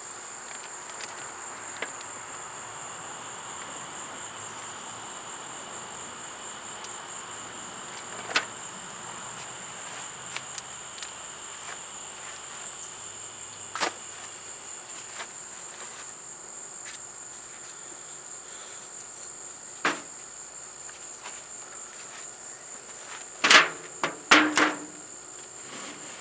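Crickets chirring in a steady high-pitched drone, with a few sharp clicks spaced several seconds apart and a quick run of louder clatters near the end.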